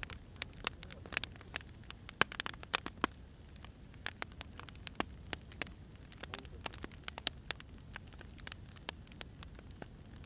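Wood fire crackling: irregular sharp snaps and pops of burning firewood over a low, steady rumble of the flames.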